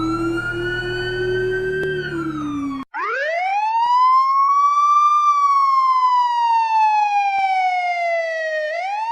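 Electronic police escort siren. It first holds a slowly rising tone that slides down and cuts off abruptly about three seconds in; then a slow wail sweeps up, falls gradually over several seconds, and starts rising again near the end.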